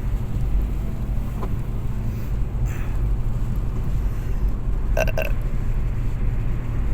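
Steady low rumble of road and engine noise inside a moving car's cabin, with a brief pitched vocal sound about five seconds in.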